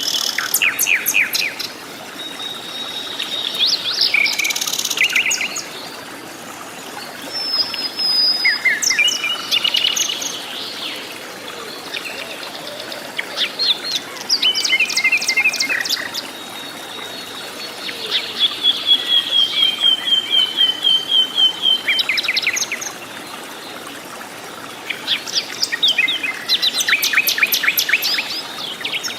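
Birds singing: phrases of quick, high chirps and whistles every few seconds, with one long rapid trill in the middle.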